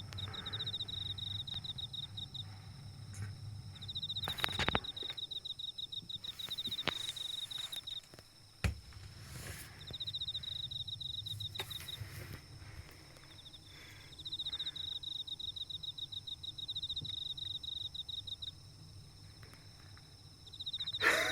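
An insect trilling in runs of a few seconds with short pauses between, a fast high pulsing, over a low steady hum. Two sharp knocks, one about four and a half seconds in and one just under nine seconds in.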